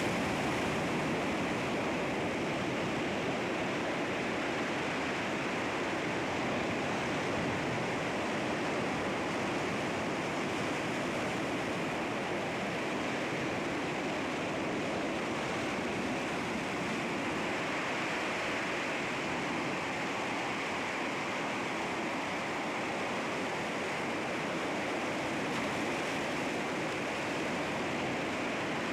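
Sea waves washing against rocks: a steady, even rush of surf.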